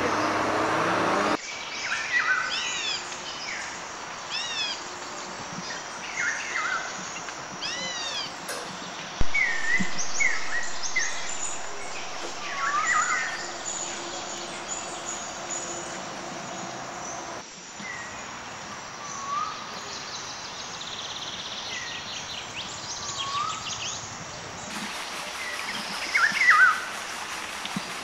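Wild songbirds singing in woodland: many short chirps and whistles, some quickly repeated, over a steady outdoor hiss. A bit of music cuts off about a second in.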